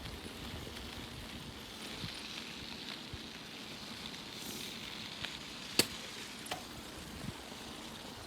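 Bicycle being ridden: steady rolling and wind noise with low bumps, and one sharp click a little under six seconds in, with a couple of smaller clicks around it.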